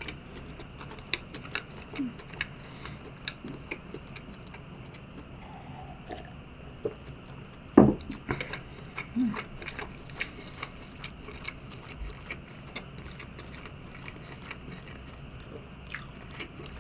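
Close-miked chewing of soft French toast: small wet mouth clicks and smacks at irregular intervals, with one louder mouth sound about eight seconds in.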